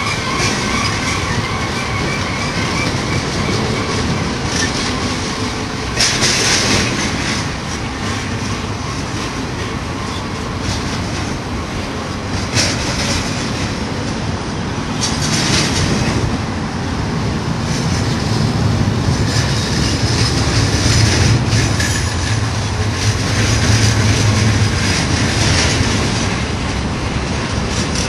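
Freight cars of a BNSF container train rolling by on a downgrade: a steady rumble of steel wheels on rail with clickety-clack over the rail joints. Short bursts of high-pitched wheel noise come several times, and the low rumble grows heavier in the second half.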